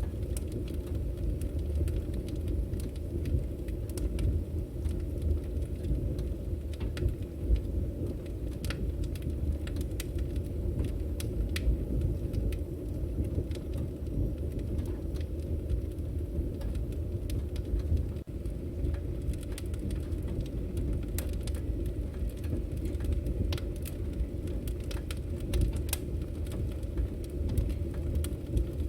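Firewood burning: a steady low roar with frequent sharp crackles and pops scattered through it.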